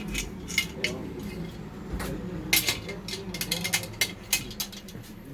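Metal hand tools clicking and clinking against the metal parts of a Stihl MS 361 chainsaw under repair, in an irregular run of short, sharp clinks.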